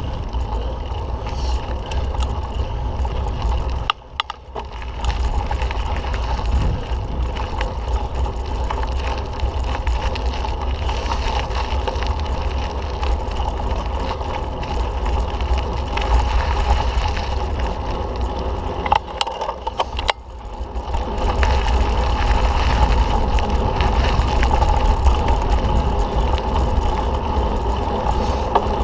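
Mountain bike ridden along a dirt trail, heard from a camera on the ride: wind rushing over the microphone, tyre noise and the rattle and knock of the bike over bumps. It drops briefly twice and is louder from about three quarters of the way in.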